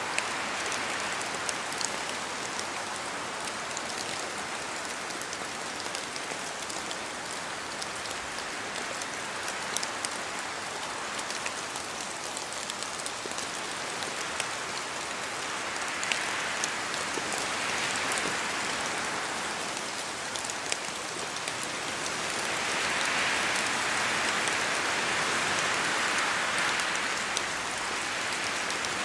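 Steady rain falling in a forest, with many separate drops ticking as they fall from the trees. Wind gusts swell the hiss twice in the second half, the longer gust near the end.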